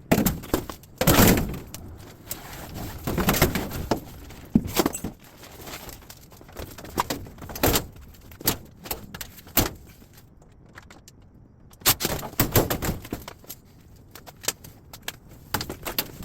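Irregular knocks, clanks and rattles of scrap metal being handled and dropped, with louder bunches of clatter about a second in, around three to four seconds in, and again past twelve seconds, and a brief lull before that.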